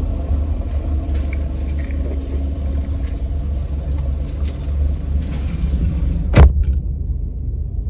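A steady low rumble, with one loud thump about six and a half seconds in.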